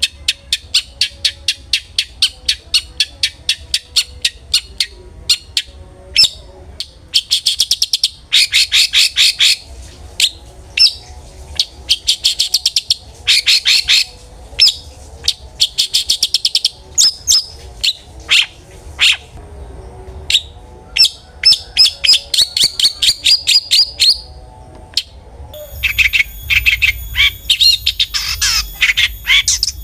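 Long-tailed shrike (cendet) singing in fast runs of short, harsh chattering notes, in bursts with brief pauses between them.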